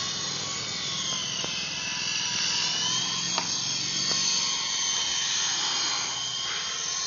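Toy remote-control helicopter's motor and rotor whining steadily, its pitch wavering up and down as the throttle changes in flight.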